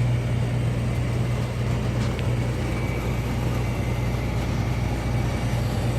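Rooftop HVAC gas pack unit from 1999 running: a steady low hum under an even rush of fan noise.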